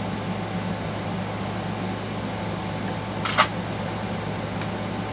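Steady background hum with one sharp click a little over three seconds in, from parts being handled as the presser foot is taken off a Singer sewing machine.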